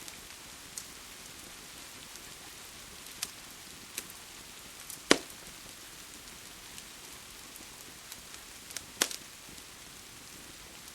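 Steady rain hiss with a wood fire crackling over it: scattered sharp pops, the loudest about five seconds in and another about nine seconds in.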